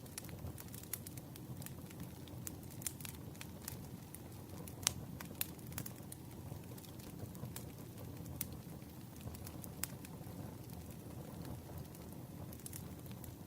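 Campfire crackling: a steady low rumble of burning wood with irregular sharp pops and snaps, a couple of louder pops about five seconds in.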